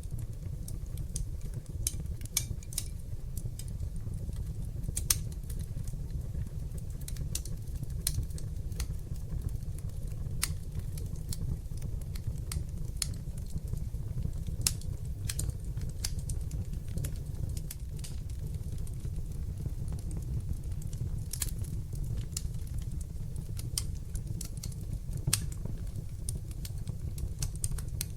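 Wood fire in a fireplace crackling: frequent, irregular sharp pops and snaps over a steady, deep rumble of the flames.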